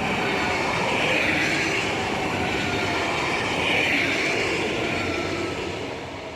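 TER Regio 2N double-deck electric train passing close by, its loudness swelling and then fading, with a high ringing note from the wheels over the rolling noise.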